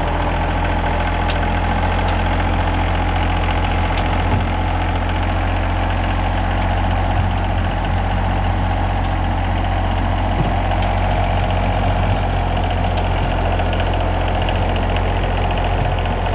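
Rural King RK24 compact tractor's diesel engine running steadily as the tractor backs up with its loader bucket held in float. A few faint clicks show over the engine.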